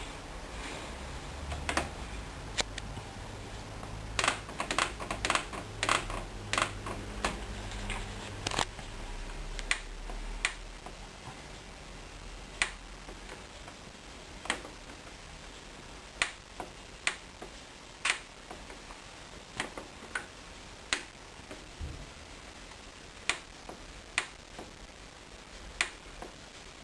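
Controls of a Hoover Dynamic Wash washing machine being clicked: sharp clicks, bunched close together at first, then coming about one a second. A low hum runs under the first clicks and stops about ten seconds in.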